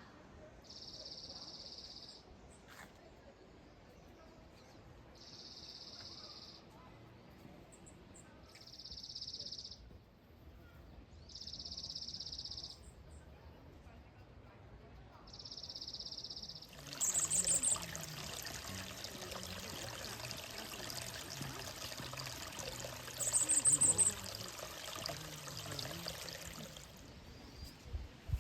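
Outdoor garden sounds. A high buzzy call repeats every three to four seconds. About halfway through it gives way to the steady rush of running water, with a quick high trill heard twice.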